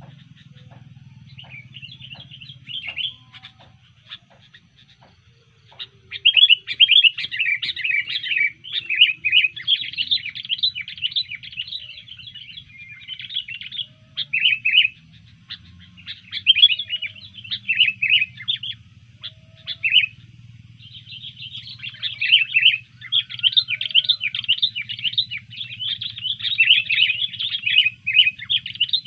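Sooty-headed bulbul (kutilang) singing in fast bursts of chattering notes, sparse at first and then dense, with a short break midway. This is its agitated, fighting-mode song after being provoked. A faint steady low hum runs underneath.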